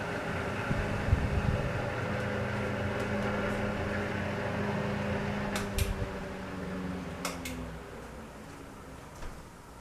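A 1940 Emerson Jr. 12-inch table fan running with a steady electric hum. There are clicks about six and seven seconds in, after which the hum fades and the sound grows quieter.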